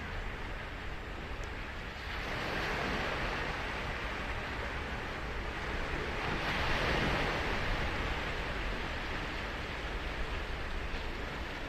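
Ocean surf: waves breaking and washing up the beach in a steady hiss, swelling once about two seconds in and again, loudest, a little past the middle before easing off.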